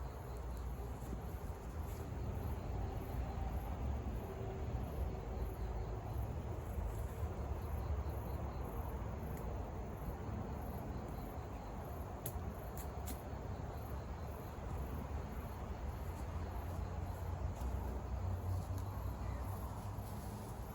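Insects chirping in a steady, high pulsing trill over a low rumbling background, with a few sharp clicks around the middle.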